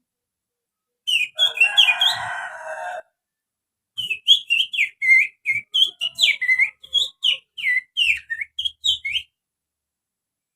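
Finger whistling imitating an oriental magpie-robin's (kacer) song. It opens with a harsh, buzzy phrase mixed with whistles lasting about two seconds. After a short pause comes a run of quick, sharp whistled notes, mostly falling, about three a second, which stops about a second before the end.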